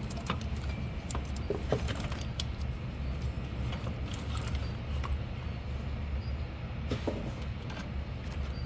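Scattered light clicks and clinks of hand tools on metal, over a steady low hum.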